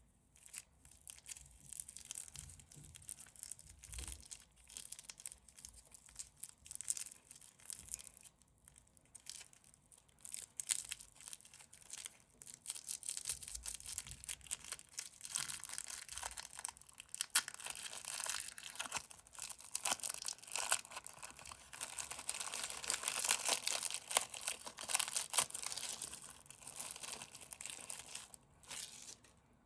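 Candy wrappers crinkling and tearing as they are handled and opened, a dense crackle of fine clicks. It grows thicker and louder past the middle and stops just before the end.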